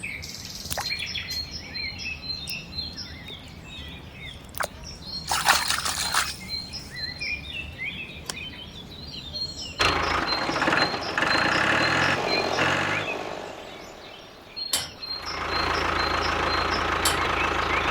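Birds chirping, then about ten seconds in a small engine starts and runs. It dies away after a few seconds, and after a click it runs again steadily near the end.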